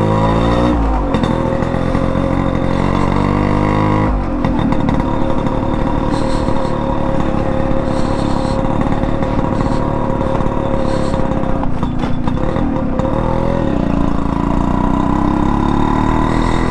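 Yamaha RX100 single-cylinder two-stroke engine running through an aftermarket expansion-chamber exhaust while the bike is ridden. The pitch climbs in the first second and holds, turns rougher about four seconds in, then dips around twelve seconds and climbs again as the bike pulls away.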